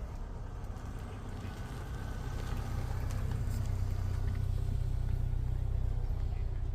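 A car engine running steadily at idle, a low even hum that swells slightly and then eases.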